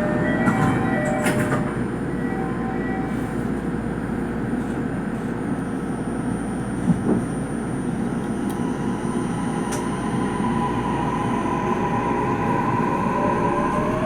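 Interior running noise of a Toei Mita Line subway train: a steady low rumble of wheels and motors, with one sharp knock about halfway through. From about ten seconds in, a motor whine rises slowly in pitch as the train picks up speed.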